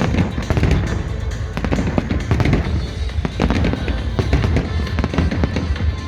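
Fireworks display, many bangs and crackles in quick succession over a continuous rumble, with music playing underneath.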